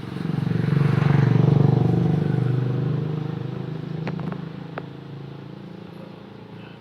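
A motor engine passing by: it grows louder in the first second or so, then fades away over the next few seconds. There are a few sharp clicks about four seconds in.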